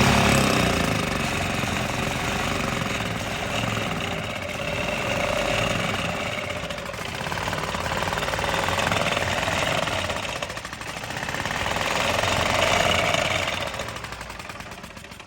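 Yamaha G9 golf cart's single-cylinder four-stroke gas engine running on a freshly fitted carburettor, with a rough rattle. It rises and falls in waves with the throttle and fades out near the end.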